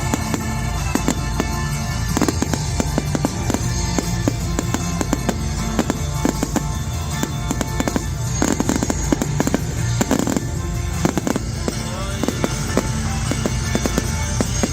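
Display fireworks going off in quick, dense volleys of bangs and crackles, over loud music played through the display's sound system.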